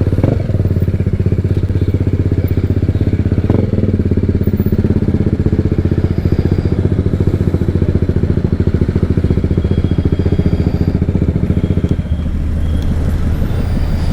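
BMW motorcycle with a loud exhaust running steadily, its exhaust beating in rapid even pulses. About twelve seconds in the note drops and turns smoother.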